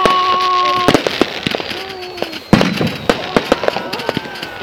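Fireworks going off: rapid crackling and popping throughout, a steady whistling tone in the first second, and one loud bang about two and a half seconds in.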